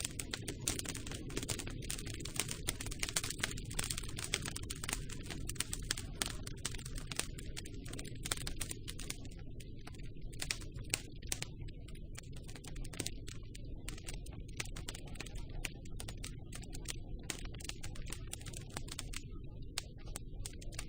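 Campfire crackling: many sharp, irregular pops and snaps over a steady low rumble of burning wood. The pops grow a little sparser in the second half.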